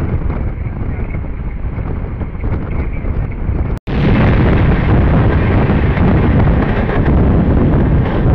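Wind rushing and train rumble at the open door of a moving passenger train. After a brief dropout a little before halfway, the coaches of another train pass close alongside, and the noise is louder with more hiss.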